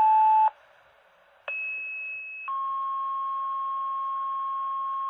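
Fire dispatch alert tones over a radio scanner. A steady tone cuts off about half a second in; after a second of hiss comes a two-tone sequential page, a higher tone for about a second followed by a lower tone held about three seconds. This is the signal that sets off fire station pagers ahead of a dispatch call.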